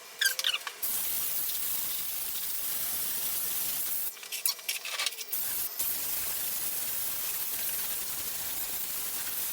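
Handheld steam cleaner spraying steam in a steady hiss onto greasy plastic, steaming grease off a portable air conditioner. The hiss breaks off for about a second near the middle, with a few sharp clicks, then starts again.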